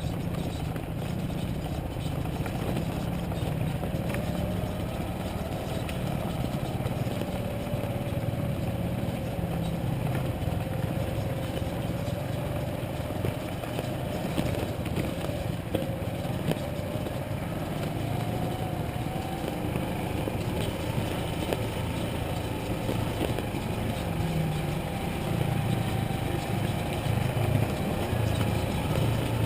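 Motorcycle engine running steadily while being ridden, its pitch drifting slowly and rising a little past the middle.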